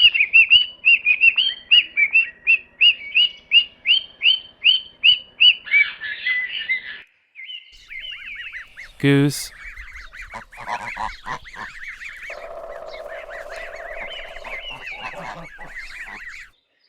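A parrot calling in a quick run of repeated high squawks, about three or four a second, ending in a harsher squawk. About nine seconds in, geese take over with continuous overlapping honking.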